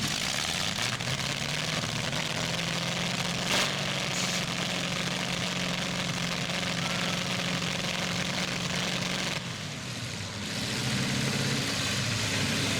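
Engines of demolition derby trucks and SUVs running in the arena: a steady low engine drone under a broad noisy wash, with one brief sharp crack about three and a half seconds in. The drone drops away for about a second near the ten-second mark, then the engines pick up again.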